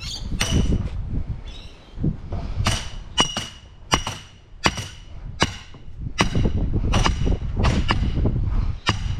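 Hammer striking formwork stakes, about a dozen sharp ringing blows at a steady pace of a little more than one a second.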